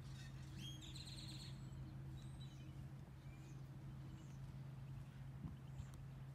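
Faint outdoor ambience with a steady low hum. A bird chirps a quick run of high notes about a second in, with a few fainter chirps later.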